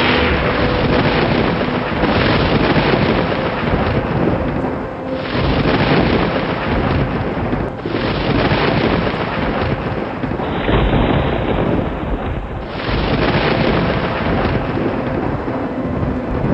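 Thunderstorm: continuous loud thunder rumbling over rain, with several abrupt changes where the recording is spliced.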